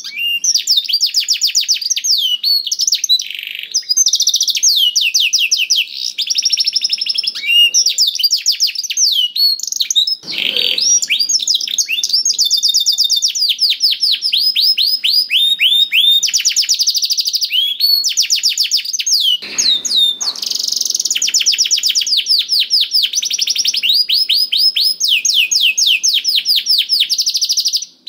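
Domestic canary singing without pause: long rolling trills of fast, repeated high notes, each note dropping in pitch, shifting from one run to the next.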